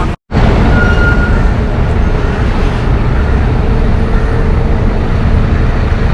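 Steady rumble of city road traffic, loudest in the low end, after a split-second cut to silence just at the start.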